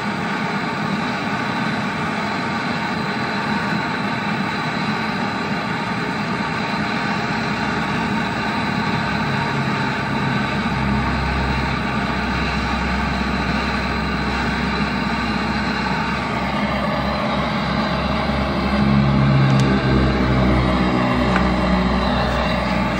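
Brazing torch flame roaring steadily as the compressor's pipe joints are brazed, with a deeper rumble joining about halfway through and the sound growing louder near the end.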